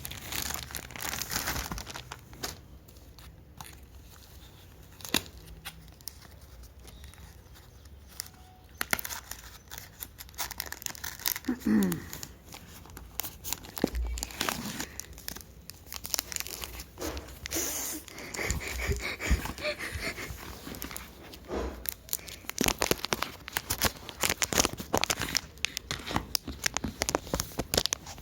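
Packaging being crinkled and torn open, with irregular rustling and crackling throughout.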